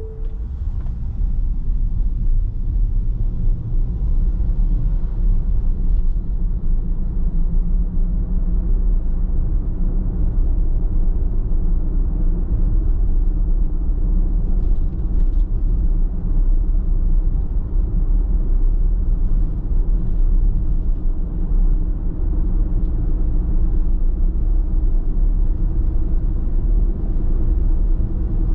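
Car driving at road speed: a steady low rumble of tyre and engine noise.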